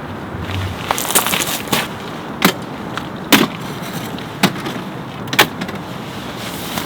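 A steady hiss with about six sharp knocks or taps spread a second or so apart.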